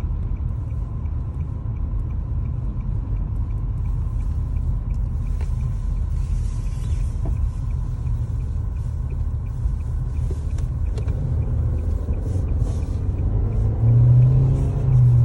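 Steady low road and engine rumble heard inside a moving car's cabin as it drives on a snowy road. A louder low hum rises about 14 seconds in.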